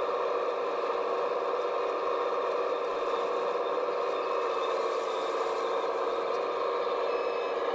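Scale RC construction machine running steadily: an even, unchanging mechanical whirring hum.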